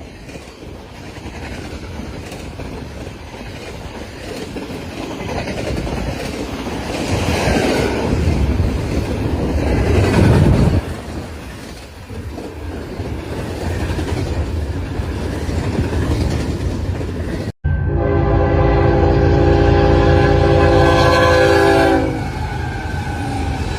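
A train passing with rumble and wheel clatter, loudest about ten seconds in. After a sudden cut, a train horn sounds one long chord of several notes for about four seconds over continuing rumble.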